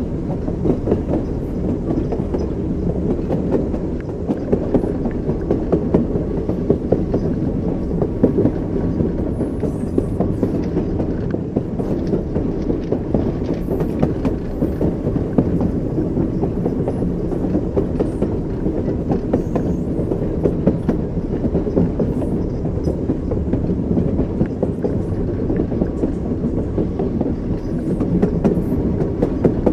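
Train wheels running over rail joints: a steady low rumble with a continuous clatter of short knocks.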